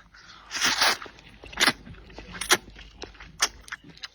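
Close-up eating sounds: a noisy slurp of a mouthful of rice noodles, then wet mouth clicks and smacks about once a second as she chews.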